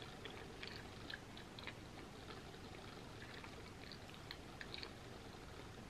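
Close-up chewing of a soft mouthful of macaroni and cheese: faint wet mouth clicks and smacks scattered irregularly through the chewing.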